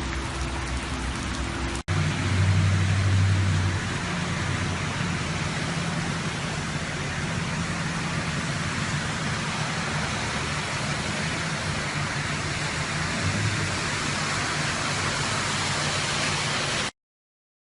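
Steady rush of water with a low engine hum underneath. It breaks off for an instant about two seconds in, and cuts off suddenly near the end.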